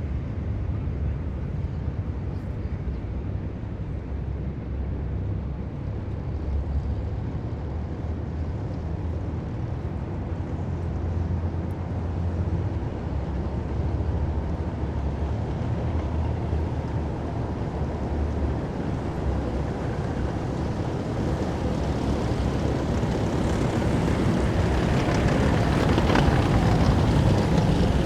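Heavy military vehicles driving past in a column: a steady deep engine drone that swells louder near the end as one passes close.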